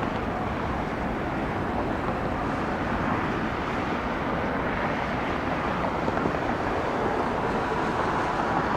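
Steady jet engine noise from aircraft, a continuous even rumble and rush without distinct events.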